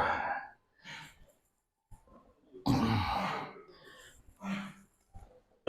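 A man breathing hard under exertion while lifting weights: a few loud, breathy exhalations in irregular bursts, the longest about three seconds in, with a short low grunt near the end.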